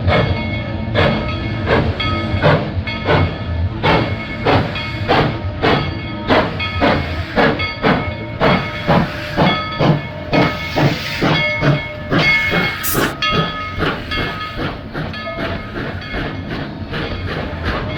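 Steam locomotive No. 190 working along, its exhaust chuffing in a steady beat of about two chuffs a second, with a burst of steam hiss about ten seconds in.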